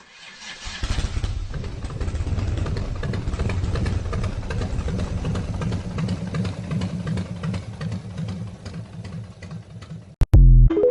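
Motorcycle engine starting and running with a steady low pulse that fades away over the last few seconds, then a short, very loud burst near the end.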